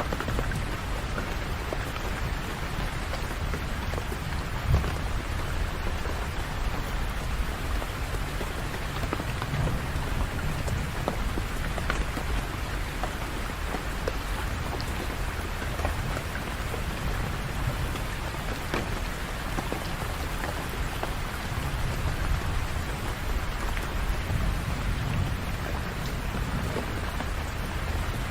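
Steady rain falling, with scattered individual drops ticking over a low rumble that swells and fades. One drop or tap stands out louder about five seconds in.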